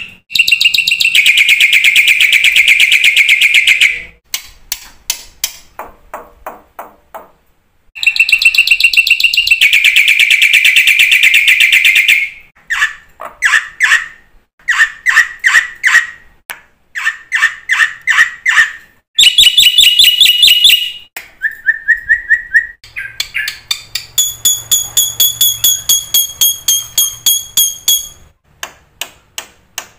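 Black-winged myna (jalak putih) singing loudly in full, varied song. Long rapid buzzy trills alternate with runs of short sharp chattering notes, a brief steady whistle a little past the middle, and a fast repeated series of notes near the end.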